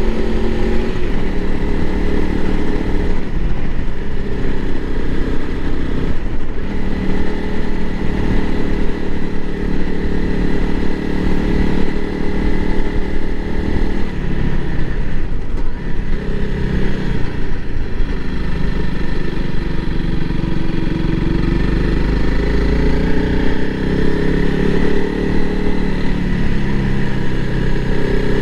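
Honda CRF300L Rally's single-cylinder engine running steadily while riding, its pitch rising and falling with throttle and gear changes.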